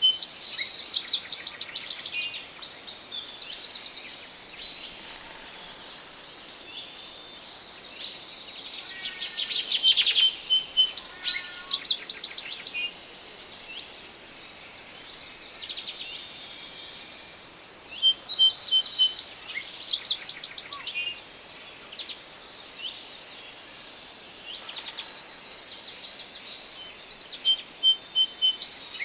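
Forest songbirds singing: bursts of quick chirps and rapid trills, returning about every nine seconds, over a faint steady hiss of forest background.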